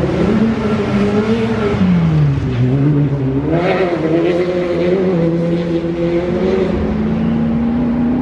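Off-road trial car's engine revving up and down under load, its pitch rising and falling with the throttle and surging about halfway through. Near the end it settles to a steadier, higher note.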